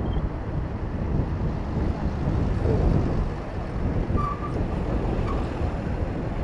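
Wind rumbling on the microphone of a bicycle-mounted camera while riding, with road traffic running underneath.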